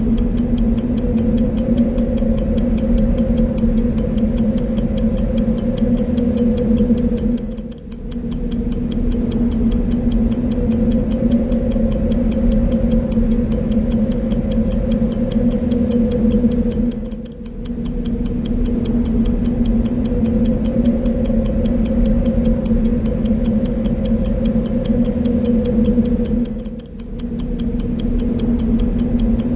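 Clock ticking steadily, its fast, even ticks laid over a loud, steady whooshing wind noise with a low hum in it. The whole sound dips briefly about every nine and a half seconds, where the loop repeats.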